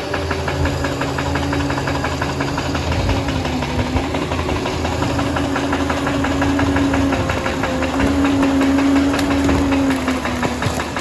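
Liebherr PR 746 bulldozer's diesel engine running steadily at work, with a fast, even clatter and a droning tone that wavers in pitch, growing slightly louder over the second half.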